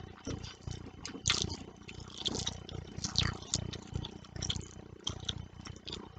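Close-miked chewing and wet mouth sounds of someone eating fish curry and rice: soft chewing about twice a second with moist smacks and clicks, the sharpest ones around one, two and three seconds in.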